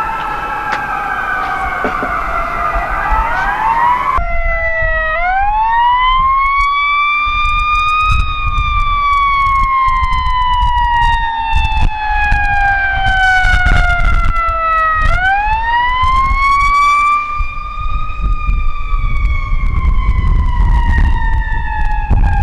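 Fire truck sirens wailing. Several sirens at different pitches overlap at first; from about four seconds in, one slow wail rises and falls twice, over a low rumble.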